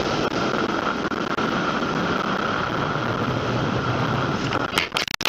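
Steady engine and road noise of a car, heard from inside the cabin, that breaks off abruptly near the end.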